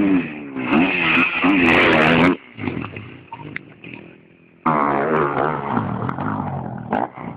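Motocross bike engine revving, its pitch rising and falling; it stops abruptly a little over two seconds in, then comes in loud again near five seconds and fades toward the end.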